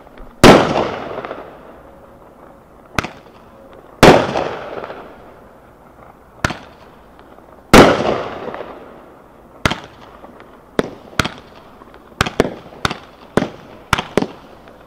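Blaze of Glory 73-shot consumer firework cake firing aerial shells. There are three loud bursts with long fading tails, each about a second after a quieter launch pop. In the last few seconds comes a quickening run of about ten sharper, shorter pops.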